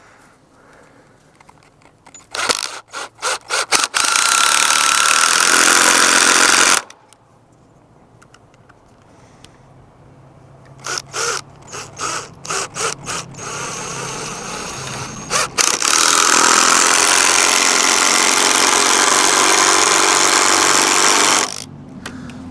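Power drill driving deck screws into wood, twice. Each time there are a few short trigger bursts, then a steady loud run: about three seconds the first time and about five seconds the second, each stopping abruptly.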